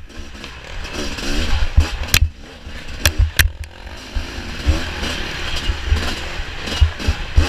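Off-road motorcycle engine revving up and down as it is ridden over rough ground, with low buffeting rumble and a few sharp knocks from about two seconds in.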